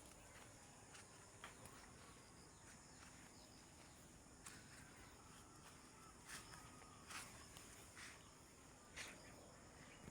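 Faint rural ambience: a steady high-pitched drone of insects, with a few soft footsteps now and then.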